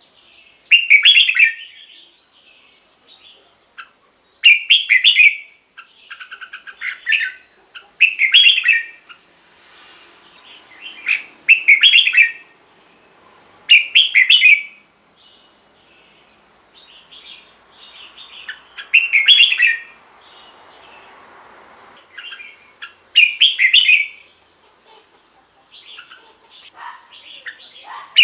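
Red-whiskered bulbul singing short, bright song phrases over and over, one loud phrase about every three to four seconds, with softer chattering notes in between.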